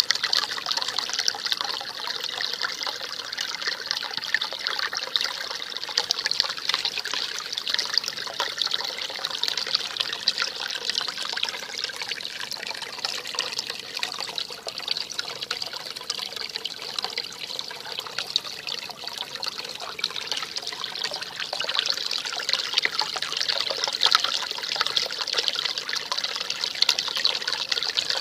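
Spring meltwater stream trickling and babbling, a steady bright gurgle.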